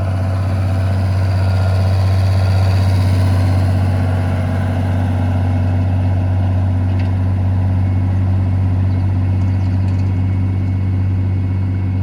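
Ford 8210 tractor's six-cylinder diesel engine running loud and steady under load, pulling up a steep bank. The engine note swells a little over the first couple of seconds, then holds.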